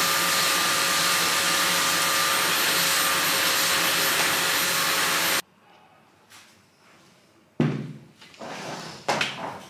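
Vacuum cleaner running with a steady whooshing hiss and faint motor whine, then cutting off suddenly about five and a half seconds in. A few soft thuds follow near the end.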